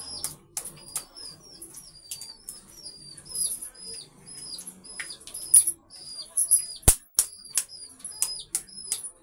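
A small bird chirps over and over, two or three short falling chirps a second. Sharp clicks and knocks come as eggs are cracked into a bowl of batter, the loudest about seven seconds in.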